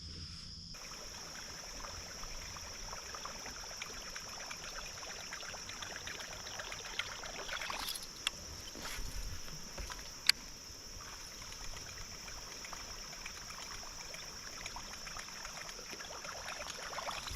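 Steady high chirring of crickets over the rushing and trickling of creek water, with a sharp click about ten seconds in.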